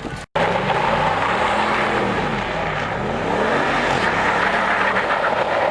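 A vehicle engine revving, its pitch rising and falling several times. It starts abruptly after a split-second dropout near the start.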